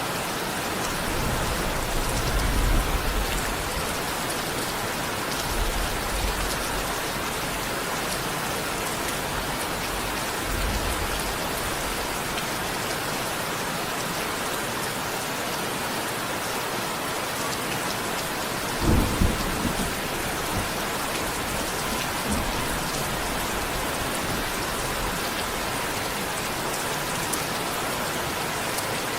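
Steady rain falling, with low rumbles of distant thunder a few times and a sharper, louder low thunder clap about two-thirds of the way in.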